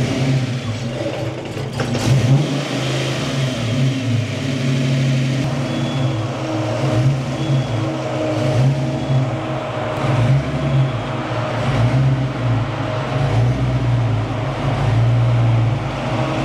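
Fox-body Ford Mustang's fuel-injected V8 idling just after a restart with the headlights and accessories loading it, during a base idle relearn. The idle wavers slightly up and down as the engine computer settles it.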